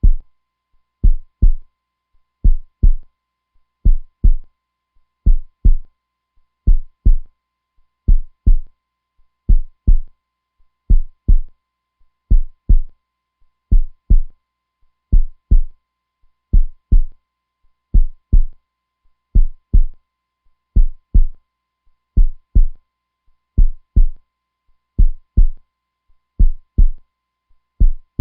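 Heartbeat, a steady lub-dub: pairs of deep thumps close together, repeating evenly about once every second and a half.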